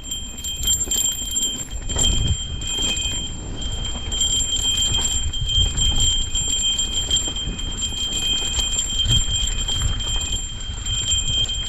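Mountain bike rolling down a rough trail: rapid ticking and rattling from the bike with knocks over rocks and a low uneven rumble, over a steady high-pitched tone.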